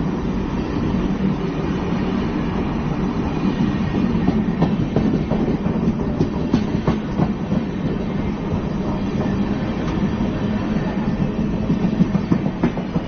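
Express passenger train running on the track: a steady rumble of wheels on rail, with irregular clacks as the wheels pass over rail joints.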